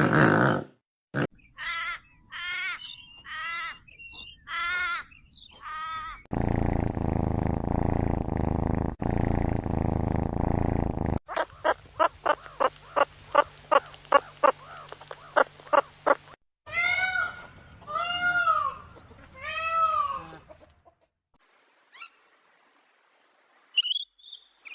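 A string of different animal calls, one clip after another. First come several short wavering calls, then a long, dense, low sound lasting about five seconds. A rapid run of clicks follows, about three a second, and then four separate rising-and-falling calls.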